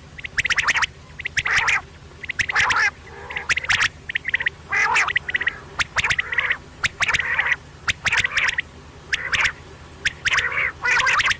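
Quail calling over and over: short clusters of sharp, quick notes repeating about once a second.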